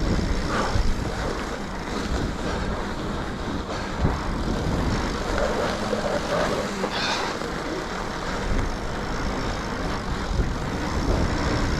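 Mountain bike ridden over packed, groomed snow: a steady rush of wind on the microphone and tyre noise, with a few knocks from the bike.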